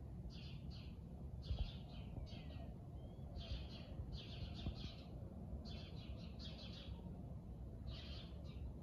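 Small birds chirping, faint: short bursts of quick high chirps repeating every second or two. Under them runs a low steady rumble of outdoor background noise.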